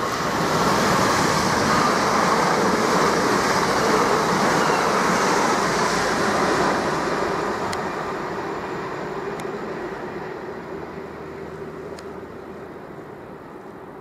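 Southern Class 377 Electrostar electric multiple unit running on the line, its wheel and rail noise loud for the first several seconds and then fading away as the train draws off, with a steady hum underneath.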